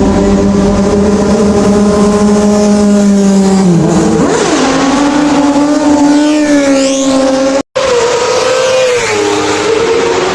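High-performance vehicle engines running hard at high revs. The pitch drops about four seconds in and wavers again later, as with gear changes or a machine passing. The sound cuts out completely for a split second shortly before the end, then carries on.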